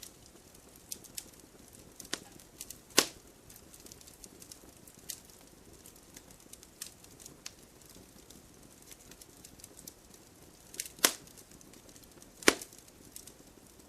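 Firewood burning in a fireplace, crackling with scattered small snaps over a faint hiss. There is a louder pop a few seconds in, and two more near the end.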